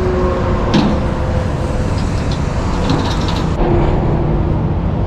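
Freeway traffic rushing past close by, a steady dense road roar of cars and heavy trucks with a low engine hum under it. The hiss on top drops off abruptly about three and a half seconds in.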